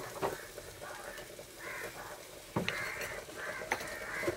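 Onions and chillies frying gently in oil in a clay pot: a soft sizzle that comes and goes, with a few sharp clicks scattered through.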